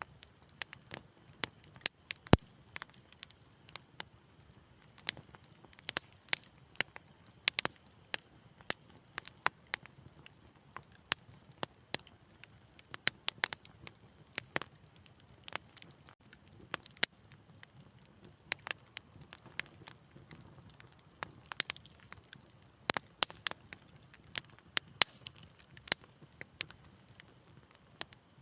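Wood fire crackling in a fireplace: irregular sharp pops and snaps, a few louder cracks among them, over a soft low hush.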